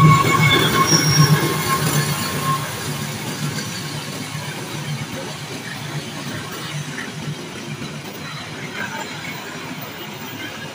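A KAI CC 206 diesel-electric locomotive and its passenger coaches passing and moving away: the locomotive's low engine drone fades while the coaches' wheels rumble steadily on the rails. A thin wheel squeal sounds for about the first two seconds.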